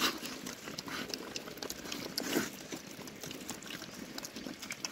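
Pigs eating cooked food scraps: a run of irregular small chewing and smacking sounds, louder about two seconds in.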